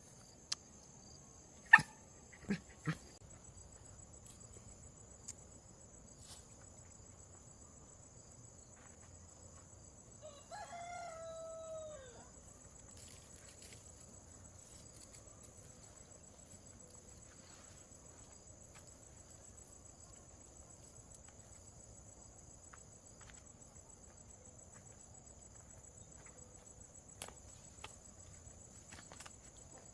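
A rooster crows once, about ten seconds in: a single call of about two seconds that drops in pitch at the end. A few sharp knocks sound in the first three seconds, and a faint steady high whine runs underneath.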